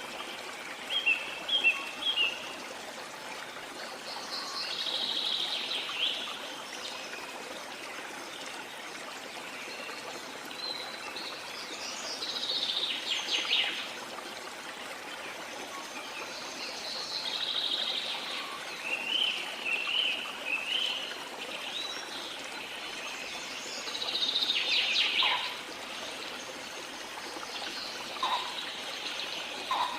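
Running water flowing steadily, with several birds chirping and calling in short high phrases every few seconds.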